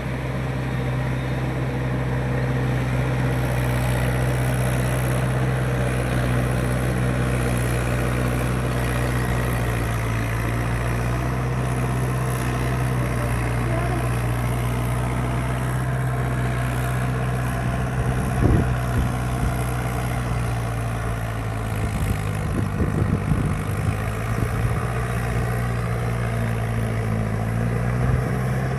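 Mahindra 585 tractor's diesel engine running steadily at an even speed, with a few sharp clanks about two-thirds of the way through.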